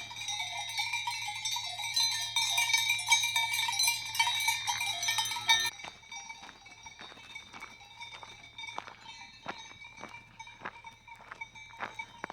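Cowbells on grazing cattle, many bells clanking and ringing together. Just past halfway they drop away abruptly and footsteps on a mountain trail take over, about two steps a second, with bells ringing faintly behind.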